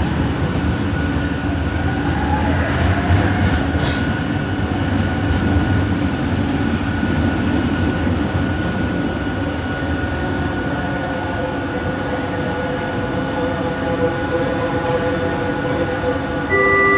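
Cabin noise of a Bombardier Innovia ART 200 metro train running along the track: a steady rumble with a thin, steady motor whine over it. Just before the end, an electronic chime starts, as before an onboard announcement.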